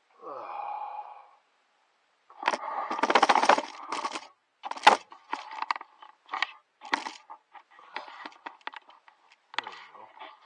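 A brief squeak, then a run of cracks, clatters and scrapes as hard objects are handled and moved about, the loudest clatter about five seconds in.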